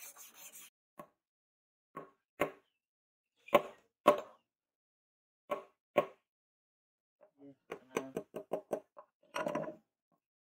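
A series of separate sharp knocks and taps on hard objects, the loudest pair about three and four seconds in, with a quick run of lighter taps, about six a second, near the end. A rhythmic rubbing stops within the first second.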